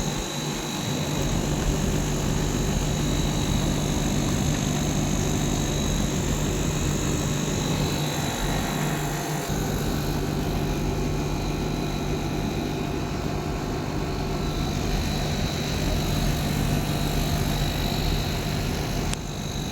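Rowa ductable air conditioner running under test: a steady mechanical hum with a faint high whine above it.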